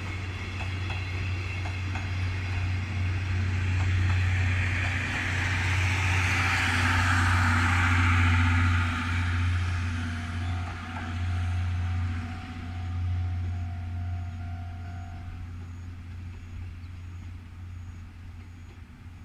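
Wheels of a train of 12-series passenger coaches running past on the rails: a rush of wheel-and-rail noise that swells to its loudest about six to eight seconds in, then fades as the train draws away. Near the end a faint high beep repeats a little more than once a second.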